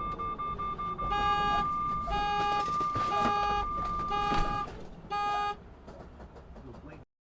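A car horn sounds in five short blasts about a second apart, over a steady high-pitched electronic beep that pulses rapidly at first and then holds. The sound cuts off abruptly near the end.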